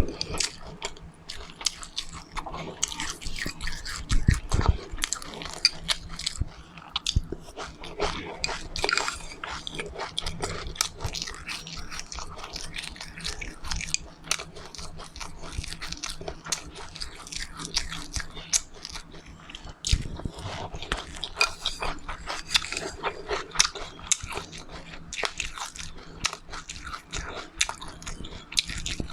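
A person chewing and biting crunchy seeds, with dense crackling crunches throughout.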